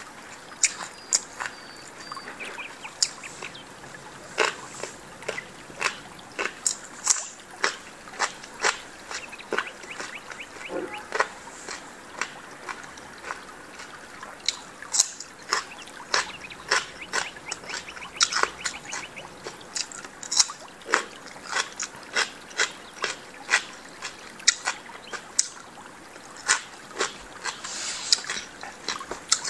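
Close-miked eating: moist chewing and crunching of food, including bites of raw cucumber, heard as sharp, irregular crackles and clicks a few times a second.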